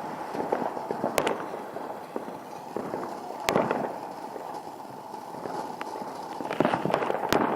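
Consumer fireworks going off: three sharp bangs, about a second, three and a half seconds and seven seconds in, with crackling between them.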